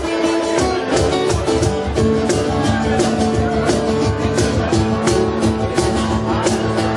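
Live rock band music: guitar over a steady drum beat.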